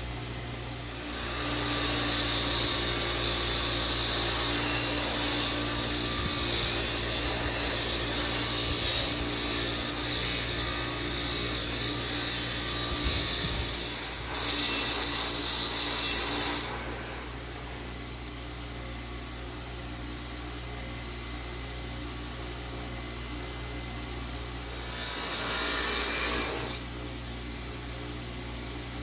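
Harsh, steady scraping hiss of an abrasive tool working a toaster part, with a steady low hum underneath. It starts about a second in and runs long, breaks off briefly, runs again for a couple of seconds, and comes back in a short burst near the end.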